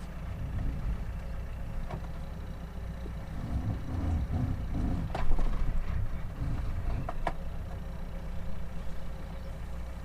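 Sailboat's engine idling steadily, with a few sharp knocks, the loudest about five seconds in.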